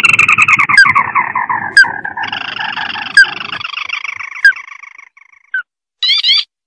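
Crake (tikusan mata merah) calls from a bird-lure recording: a long, rapid trill falling in pitch, overlapped by a second trill, with short sharp rising notes about once a second, then a quick burst of rising notes near the end.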